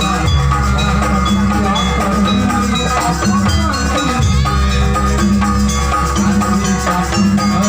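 Gamelan ensemble accompanying a Janger dance performance: struck metallophones and drums playing continuously.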